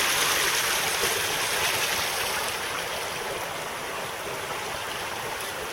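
Creek water rushing through and over a stacked cinder-block dam, a steady rush that slowly grows fainter.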